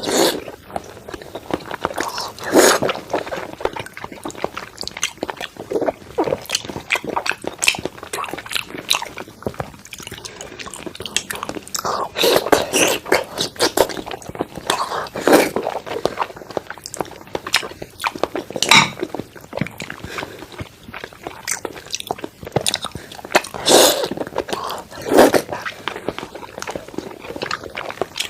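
Close-up eating sounds of thick-cut salmon being chewed: a steady run of wet chewing and mouth clicks, with a louder bite every few seconds.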